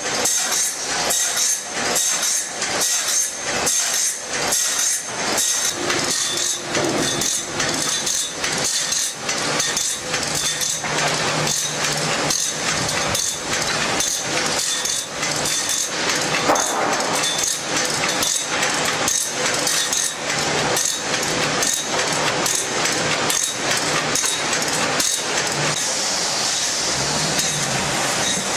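Machinery clattering continuously, a rapid run of metallic knocks, about three or four a second, with a faint steady high whine beneath.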